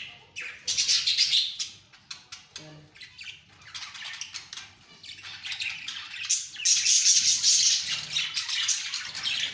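Pet budgerigars chirping and chattering in quick, high-pitched bursts, loudest in the last few seconds.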